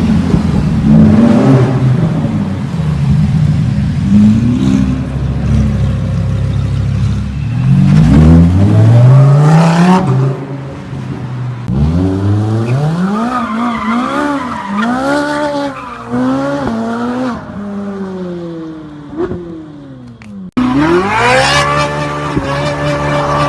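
Car engines revving hard, the pitch climbing and dropping again and again as the cars powerslide, with tyre squeal. About twenty seconds in it cuts abruptly to another car held at high revs.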